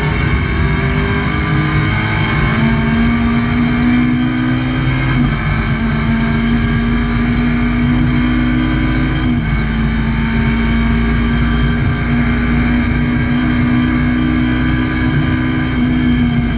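Alfa Romeo 147 2.0 Twin Spark's four-cylinder engine heard from inside the race car's cabin, held at a fairly steady high note under load, with small shifts in pitch about five and nine seconds in.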